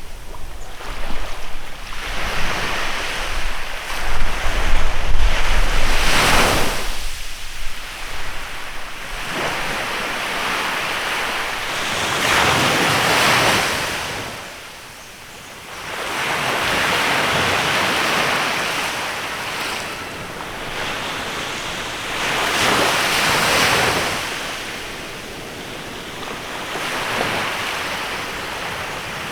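Waves breaking and washing on a beach in a bay, swelling and fading every few seconds, with gusts of wind buffeting the microphone in the first several seconds.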